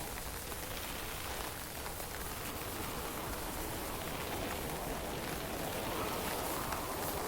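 Fine drizzle falling in a steady, even hiss, with a low rumble of wind.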